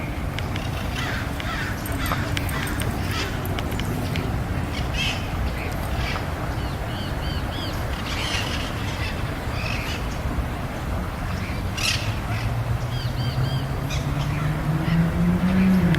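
Birds calling with short, repeated harsh cries over a steady low rumble; a low engine drone grows louder near the end.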